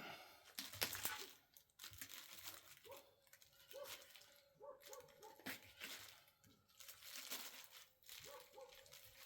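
Faint, irregular crinkling and rustling, with a few short faint tones in the background.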